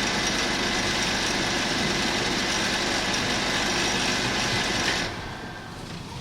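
Steady hiss from a sound system, with no tone or voice in it, cutting off suddenly about five seconds in.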